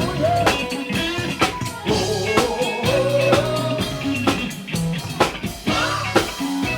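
Live band playing a funk-rock groove with no singing: drum kit hits on a steady beat under a bass line, and a lead line that bends up and down in pitch.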